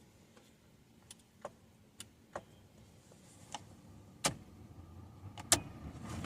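Sharp mechanical clicks of a Datsun's analog push buttons being pressed one at a time, about eight spread over several seconds, the loudest one a little past five seconds in.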